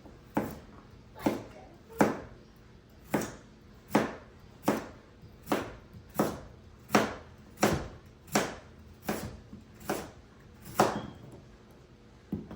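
Kitchen knife chopping potatoes into small pieces on a cutting board: a steady series of sharp knocks, a little more than one a second, with a short pause near the end.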